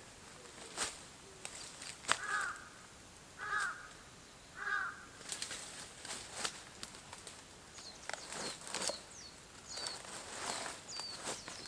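A crow cawing three times, a little over a second apart. From about eight seconds in, a small bird chirps in short high notes among scattered rustling and knocking noises.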